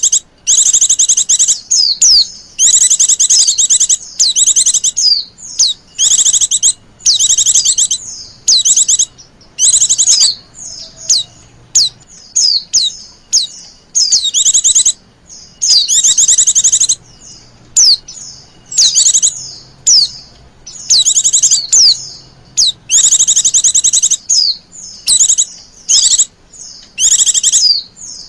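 Female white-eye (pleci) giving fast, high chittering trills in bouts of about a second, one after another with short gaps. This is the coaxing female call that keepers play to lure and stimulate male white-eyes.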